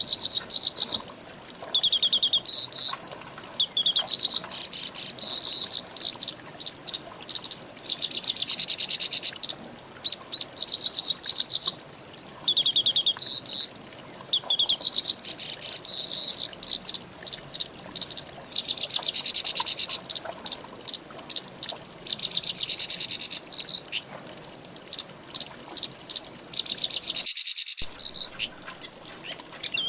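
Songbirds singing quick, repeated phrases of short high notes, over a steady high insect-like buzz. The sound cuts out completely for about half a second near the end.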